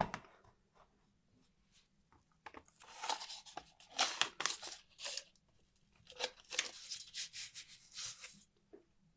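A sharp knock, then for about six seconds a run of irregular, short noisy strokes: hand work on a small part, such as rubbing, scraping or cutting.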